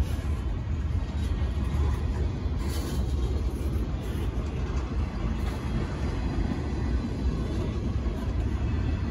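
A freight train of empty intermodal double-stack well cars rolling past close by: a steady, deep rumble of wheels on rail with no break.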